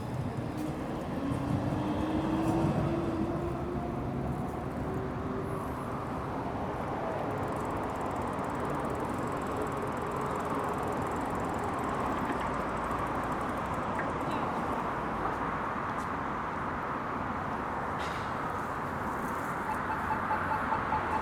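A passing motor vehicle whines, rising in pitch as it speeds up, loudest about two to three seconds in. Steady street and riding noise from a bicycle in city traffic runs under it.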